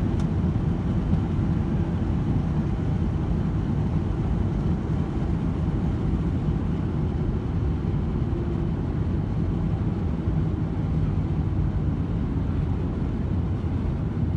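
Steady low rumble inside the cabin of a Boeing 737-800 in flight: its CFM56-7B engines and the airflow over the fuselage. A brief click sounds just after the start.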